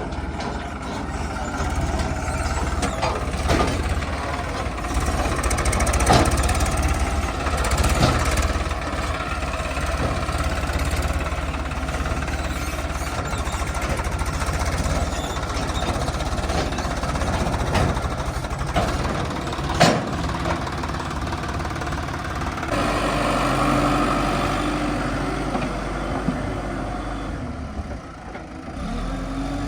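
Heavy diesel machinery engine running steadily, with a few sharp knocks along the way; the engine sound changes character about three-quarters of the way through.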